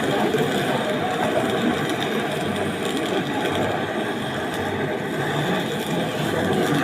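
A steady mechanical running noise with a faint hum, even throughout.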